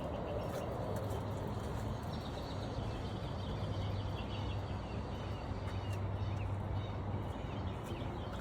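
Birds chirping in quick short series over a steady low hum and background noise, with a few faint clicks.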